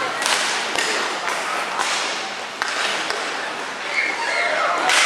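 Ice hockey play in a rink. Sharp clacks of sticks and puck come through a steady hiss of skates on ice, with players' voices calling out.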